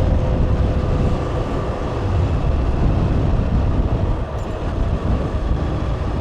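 Motorcycle running steadily at road speed, with wind rumbling on the microphone.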